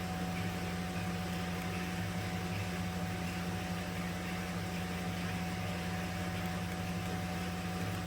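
Steady low mechanical hum with a faint steady whine above it, unchanging throughout.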